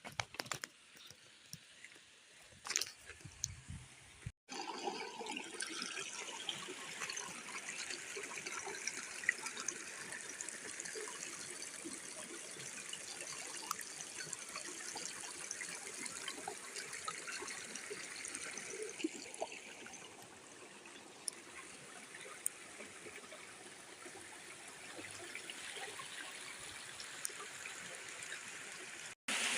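Water trickling steadily, full of small splashing ticks, starting suddenly about four seconds in. Before it come a few faint scattered clicks.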